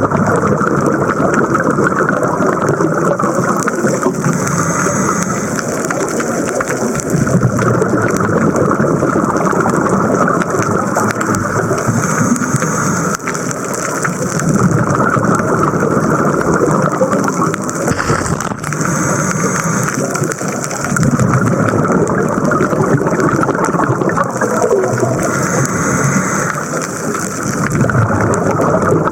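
Scuba diver breathing through a regulator underwater: a short hiss on each inhale about every seven seconds, with a rush of exhaled bubbles between.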